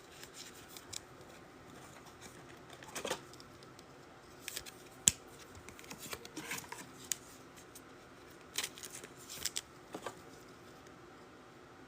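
Faint, scattered clicks and rustles of trading cards and pack wrappers being handled, with a sharper click about five seconds in.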